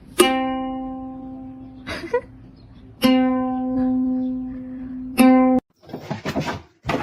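A plucked string instrument rings the same note three times. Each note starts sharply and fades slowly, and the third is cut off abruptly.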